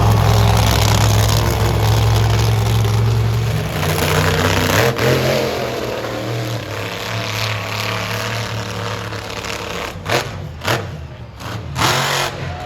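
Monster truck engine running loud and steady, its pitch shifting about five seconds in, then several short, loud bursts near the end.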